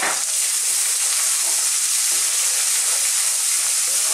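Sliced onion, curry leaves, ginger garlic paste and green chilli sizzling in very hot corn oil in a saucepan: a steady high hiss, stirred with a spatula near the end.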